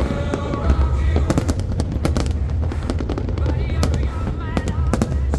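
Fireworks going off: a rapid series of sharp cracks and bangs over a continuous low rumble, with voices or music underneath.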